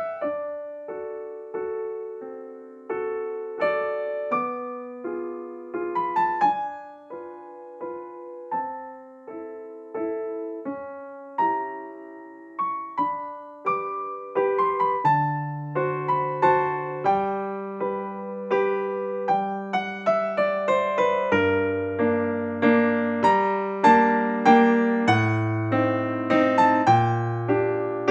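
Background piano music: a gentle melody of single struck notes over chords, with lower bass notes joining about halfway through.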